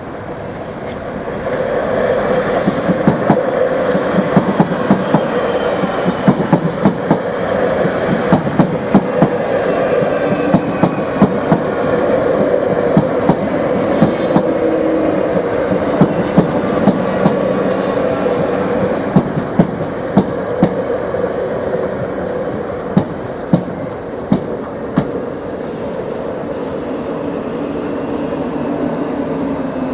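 Two coupled Class 458 electric multiple units running over a level crossing. A steady rail rumble is broken by repeated sharp clacks as the wheels cross the rail joints, with a faint high whine over it.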